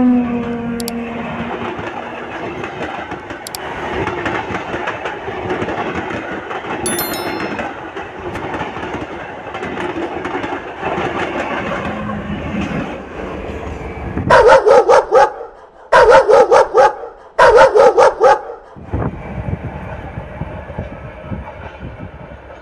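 Passenger train passing close by with a steady rumble and rail clatter. About two-thirds of the way in come three loud pitched blasts of about a second each, after which a fainter running sound carries on.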